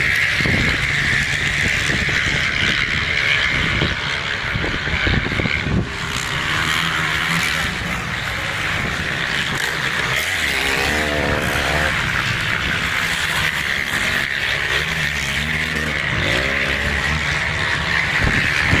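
Motocross dirt bike engines running, with the pitch wavering up and down as the throttle is worked around the middle and again near the end.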